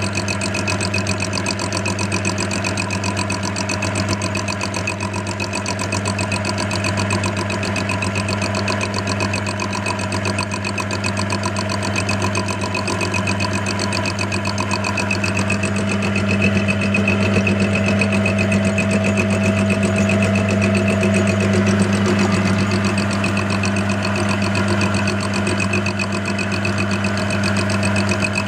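Clarke CL430 metalworking lathe running steadily as a mill, its motor and drive giving a loud, even hum. An HSS dovetail cutter is taking a light reverse-milling finishing pass through a mild steel block, not under load.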